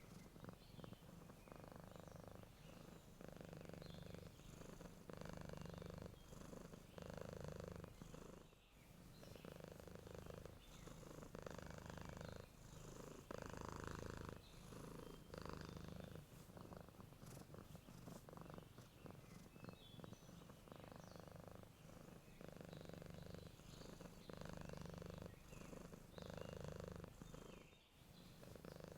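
A sleeping domestic cat purring close up. The purr rises and falls in an even rhythm with its breathing, about one breath cycle every two seconds.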